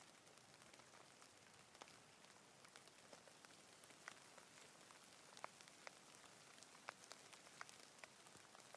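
Rain: a quiet, steady hiss with many scattered individual drops tapping at irregular moments.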